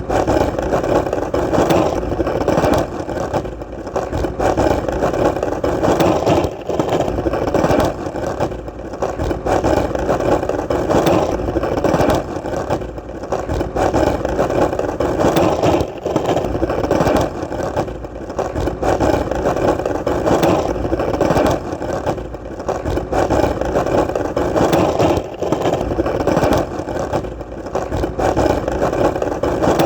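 Skateboard wheels rolling steadily over hard, solid ground: a continuous rolling rumble that wavers slightly in level, with a few brief dips.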